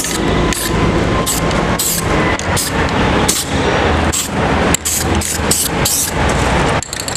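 Aerosol spray can of silver galvanising paint hissing in a string of short bursts, coming quicker toward the end, over a steady low engine rumble.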